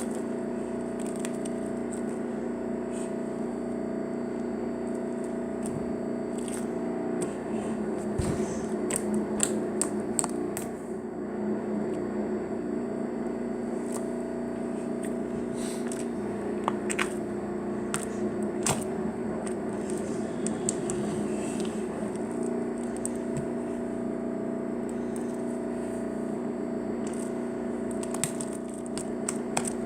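Slime being played with: scattered small clicks, crackles and squishes over a steady background hum.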